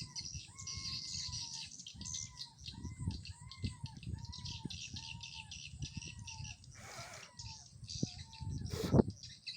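Swiftlets twittering in a dense, high chirping, over a lure call of arching notes repeated about twice a second from the bird house's sound player. There is a brief rustle about seven seconds in and a sharp thump near the end.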